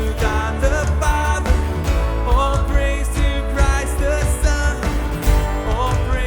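Live worship band playing a song: sung vocals over drums, bass guitar, electric guitar and piano, with a steady beat.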